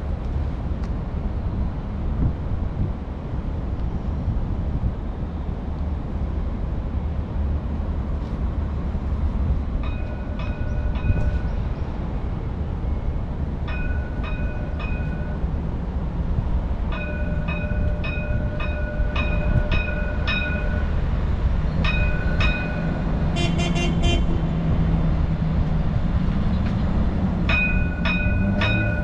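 Tram running with a steady low rumble. From about a third of the way in, clusters of short, high, two-tone beeps sound again and again, several to a cluster.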